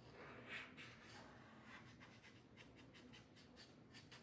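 Near silence with faint, scattered light scratches and taps.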